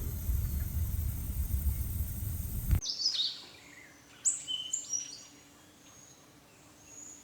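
A low rumbling noise that cuts off abruptly about three seconds in, then a bird calling with a quick series of sharp, high, downward-sweeping chirps, dying away to near quiet toward the end.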